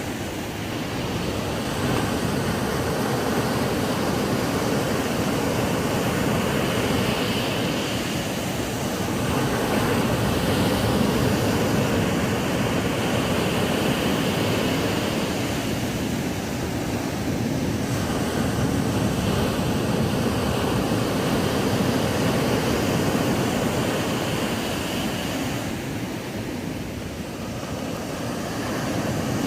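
Ocean surf breaking on a sandy beach: a continuous rush of water that swells and eases slowly every several seconds.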